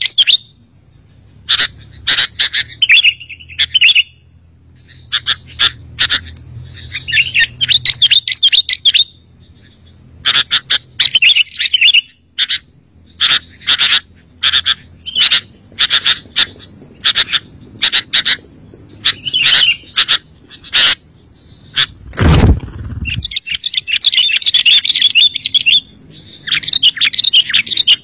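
Sooty-headed bulbuls (kutilang) singing: bursts of rapid, bright chattering and whistled notes, repeated with short pauses. About three-quarters of the way through, a single dull thump.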